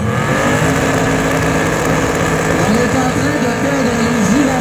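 Car engine revving hard during a tyre-smoking burnout, its pitch swooping up and down, with voices mixed in.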